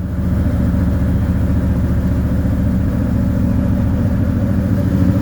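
1981 Camaro Z28's V8 running steadily just after a cold start. It has no choke, so the gas is held by hand to keep the cold engine from stalling while it warms.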